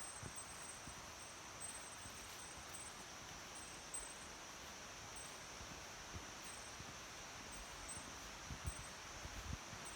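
Mountain stream running over shallows, a steady rushing, with a steady high insect drone and short high chirps repeating about once a second. A few low bumps near the end.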